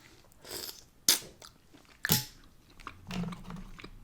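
Close-miked eating sounds from a juicy mussel: two sharp, wet mouth smacks about one and two seconds in, with chewing around them.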